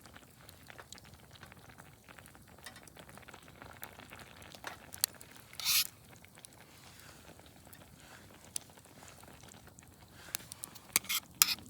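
Pot of sukiyaki simmering, a faint steady sizzle and crackle with scattered sharp clicks. There is a brief rustle a little past halfway and a cluster of louder clicks and taps near the end.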